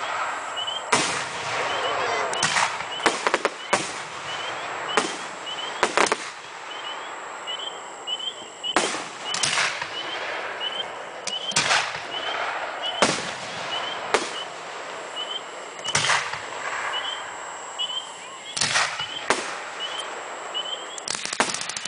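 Aerial fireworks bursting overhead: about fifteen sharp bangs at uneven intervals of a second or two, some in quick pairs, with crackling between them. Near the end comes a rapid run of crackling pops.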